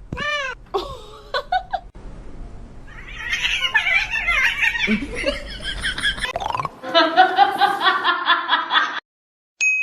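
People laughing hard, ending in a fast run of 'ha-ha-ha' laughter that cuts off suddenly near the end.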